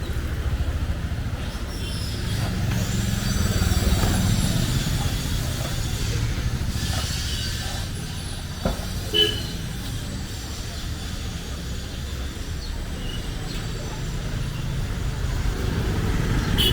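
Street noise dominated by a motor vehicle engine running close by, loudest a few seconds in, with a faint high whine over it. A couple of short sharp knocks come around nine seconds in.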